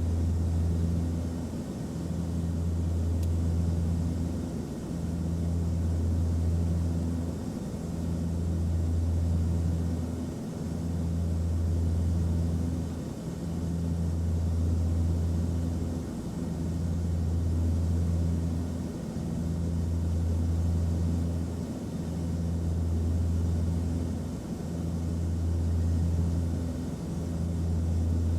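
Aircraft cabin noise: a steady low engine drone with a faint hiss above it, swelling and dipping about every two and a half seconds.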